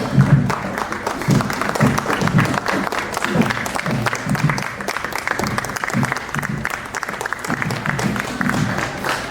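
Marching band playing: a low bass pulse about twice a second under dense, rapid drumming.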